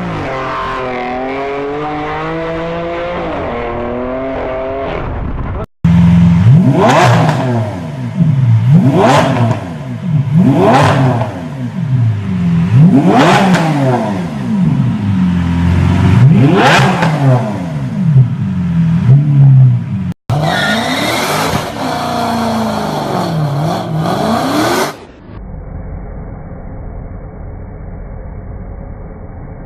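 Performance car exhausts across several clips: an engine running steadily, then a car engine revved hard about seven times, each rev rising and dropping quickly, roughly every two seconds. Another engine revs briefly after that, and a duller, muffled engine noise closes the window.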